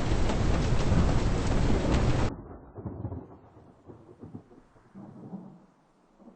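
Thunderstorm noise: dense, loud rain and wind with fine patter, cutting off abruptly a little over two seconds in to a much fainter, muffled rumbling and patter.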